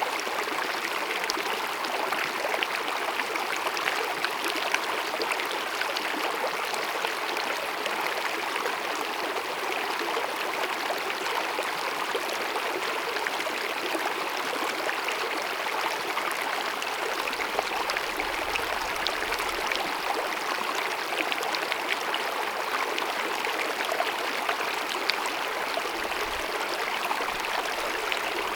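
A small, shallow mountain stream babbling and splashing steadily over rocks, with a constant rush of water and a fine, continuous patter of splashes.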